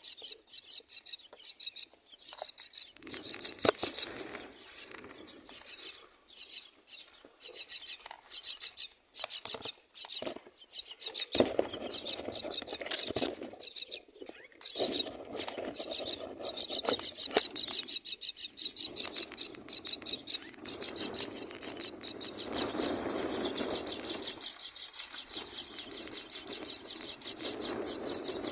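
Common myna nestlings giving rapid, raspy begging calls in quick repeated pulses, with a few knocks and rustles in the nest.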